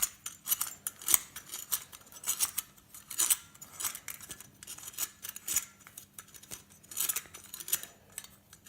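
Irregular metallic clicks and scrapes of a metal light fitting being worked apart by hand.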